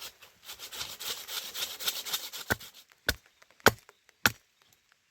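Wood being worked by hand: a quick run of rasping, scraping strokes for about two and a half seconds, then four sharp chopping knocks about 0.6 s apart.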